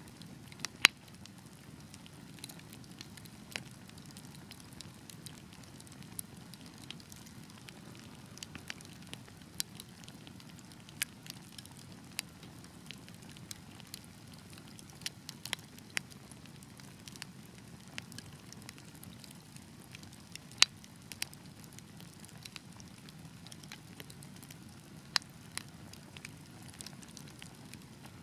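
Wood fire in a fireplace crackling: irregular sharp pops and snaps over a low, steady rumble of burning, with the loudest pops about a second in and about two-thirds of the way through.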